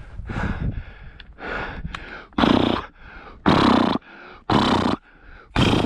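A man breathing hard, loud gasping breaths about once a second that grow much louder about two seconds in: he is winded from running after birds on foot.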